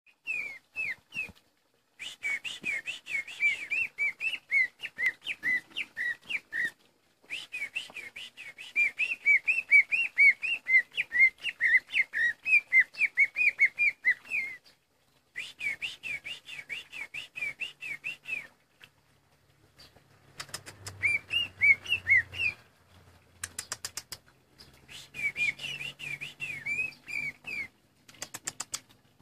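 Green leafbird (cucak ijo) singing energetically: quick runs of whistled chirps repeated over and over, in bouts of several seconds broken by short pauses.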